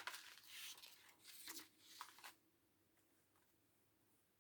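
Faint rustling of a diamond-painting kit's packaging being handled: a few short rustles in the first two seconds or so, then near silence.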